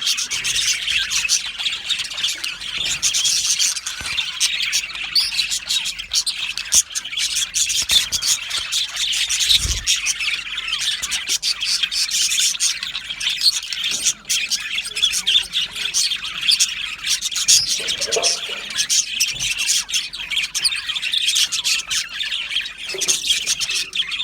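A colony of budgerigars chirping and chattering together: a dense, continuous twittering of many birds at once.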